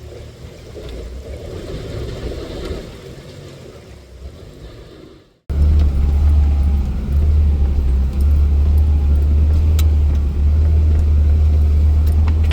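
An off-road 4x4's engine: first a moderate engine and drive noise that swells and fades, then, after a sudden cut about five seconds in, a loud steady low engine drone.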